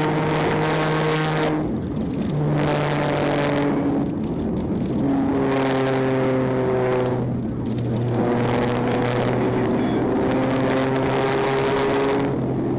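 Police patrol car driving hard at high speed: a steady engine drone under road and wind noise, easing briefly every couple of seconds.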